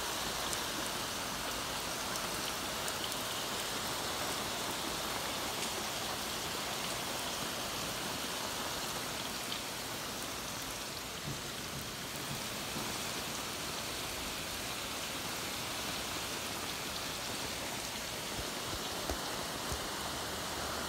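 Heavy rain falling steadily, a dense even hiss with scattered small drop taps.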